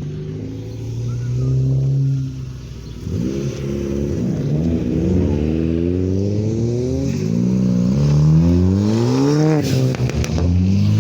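A car engine accelerating away. It runs at a steady low note for about three seconds, then its pitch climbs again and again, dropping back at each gear change.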